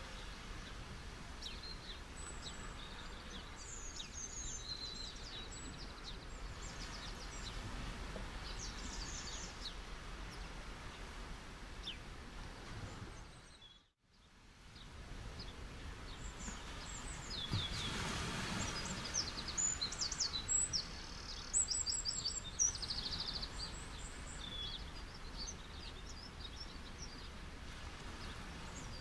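Small birds chirping and calling repeatedly over a steady wash of background noise. About halfway through, the sound fades briefly to near silence, then returns a little louder with denser chirping.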